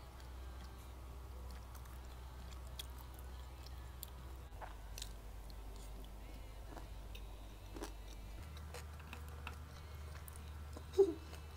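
Chewing of a seaweed-wrapped kimbap sushi roll, with small scattered mouth clicks and wet sounds. One brief louder sound comes near the end.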